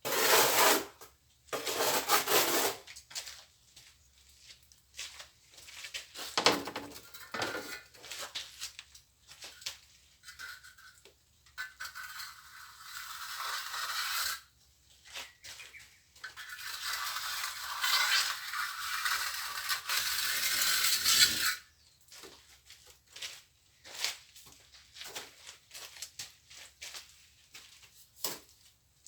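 Plastering trowel scraping and rubbing cement mortar, in irregular strokes with longer continuous scrapes in the second half.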